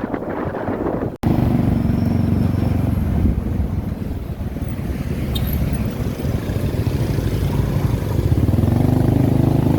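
Motorbike engine running under way, heard from the pillion seat, with wind rushing over the microphone. The engine's low note holds steady and grows a little louder near the end.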